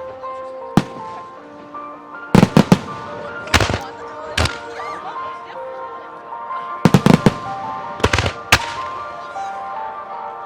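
Aerial firework shells bursting in quick clusters of sharp bangs, with background music playing held notes underneath.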